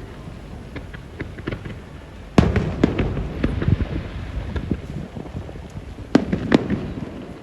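Fireworks display: aerial shells bursting with sharp cracks and crackling over a steady low rumble. One loud bang comes about two and a half seconds in, and two more close together near the end.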